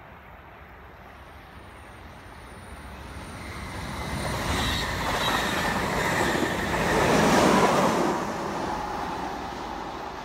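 SBB electric commuter train approaching along the track, passing close by with the rumble of its wheels on the rails, loudest about seven seconds in, then fading as it pulls away.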